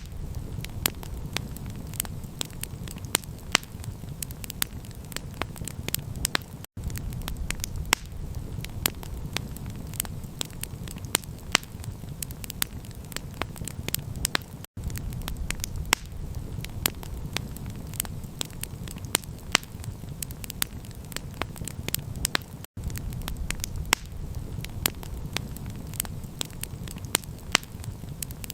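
Campfire crackling: a dense run of irregular sharp pops and snaps over a steady low rumble. The sound drops out for an instant three times, about every eight seconds.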